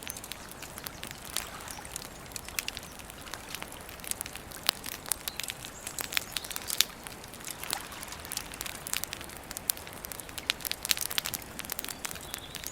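Wood campfire crackling, with frequent irregular sharp pops and snaps over a soft steady hiss.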